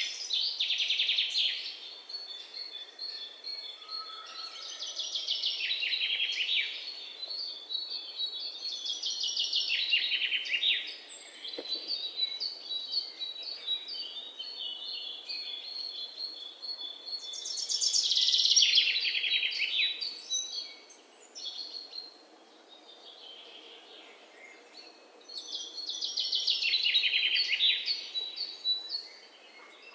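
A songbird singing: loud phrases of rapid trilled notes that fall in pitch, each about two seconds long, repeating every several seconds, with thin high chirps in between.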